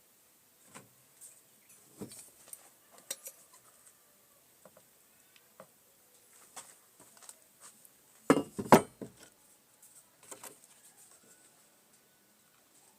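Scattered light clicks and taps of hard objects being handled, with a louder clatter of two or three knocks a little after eight seconds in.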